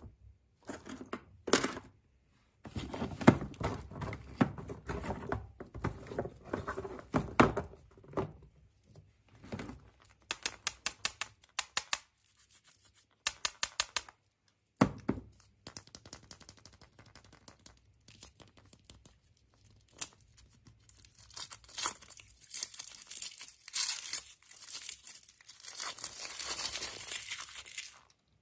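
Wrapping being torn and crinkled by hand in irregular bursts, with runs of quick clicks near the middle and a denser, hissier crinkling in the last several seconds.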